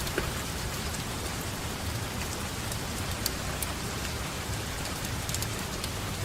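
Steady rainfall: a constant hiss of rain with scattered sharp ticks of single drops.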